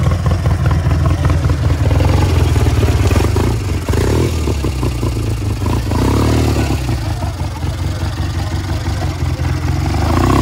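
Small lawn-tractor engine running steadily at low speed as the tractor crawls through.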